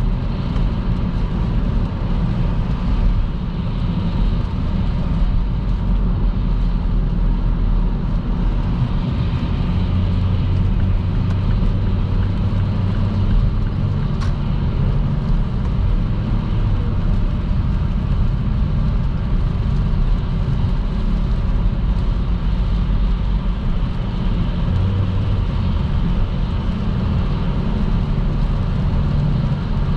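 Car travelling at motorway speed in the rain: a steady low rumble of tyre and road noise. One short sharp tick about fourteen seconds in.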